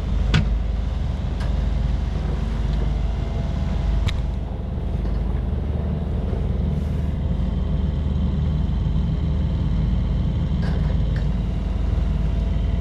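Yanmar 75 hp marine diesel of a sailing yacht running steadily under load at about 2,300 RPM, with a constant low drone and an unchanging pitch. A few light clicks sound over it.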